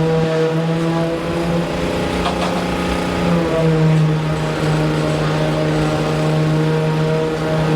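A steady, low engine or machine drone, with a stack of overtones that holds its pitch.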